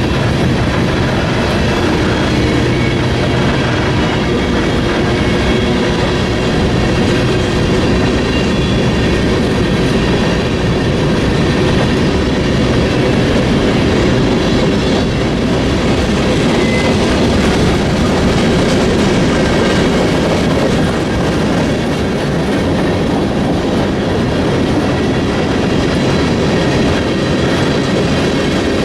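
Freight train cars rolling past on the rails, a loud and steady noise that runs without a break.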